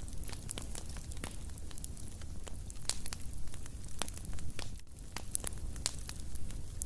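Wood fire in a fireplace crackling: irregular sharp pops and snaps over a low steady rumble of burning.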